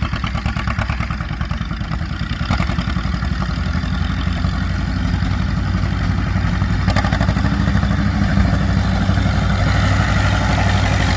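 Antique farm tractor engines, including a Cockshutt 20's, running at throttle as they race side by side, with a fast, steady low firing pulse. The engine sound grows a little louder a few seconds in and again near the end.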